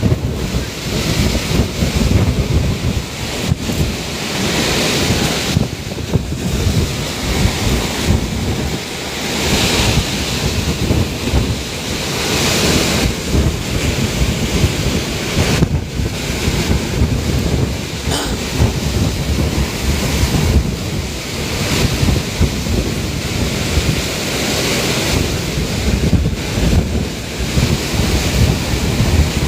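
Typhoon-force wind and driving rain, a loud continuous roar that surges and eases in gusts, with wind buffeting the microphone.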